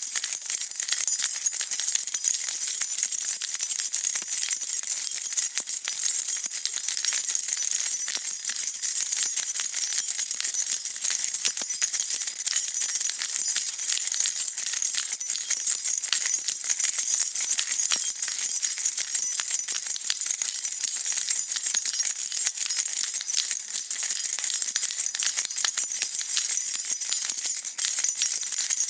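A bunch of metal keys jingling continuously: a dense, even shimmer of small metallic clinks, bright and high-pitched.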